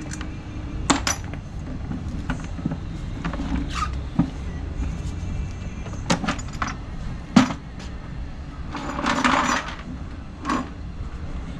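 Hand tools and metal parts clinking and knocking at irregular intervals while a scooter is taken apart, with a short rattling scrape about nine seconds in.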